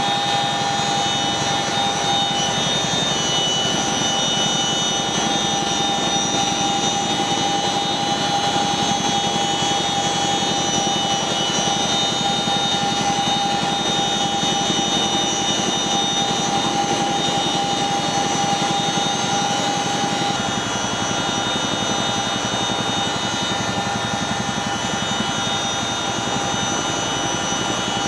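Boeing CH-47 Chinook tandem-rotor helicopter with its twin turboshaft engines running steadily: a constant turbine whine over dense engine and rotor noise. It turns a little quieter about twenty seconds in.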